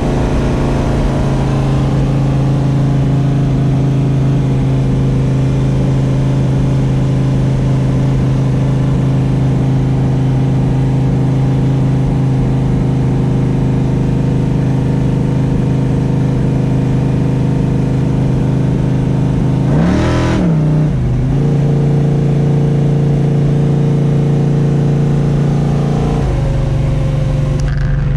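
Mopar 512 cubic-inch stroker big-block V8 running steadily under way, at a constant pitch for most of the time. About twenty seconds in the pitch briefly drops and climbs back, and it changes again near the end.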